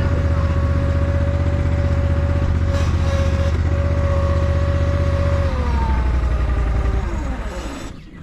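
Garden tractor engine running steadily, then winding down about five and a half seconds in, its pitch falling until it stops near the end: the engine being shut off.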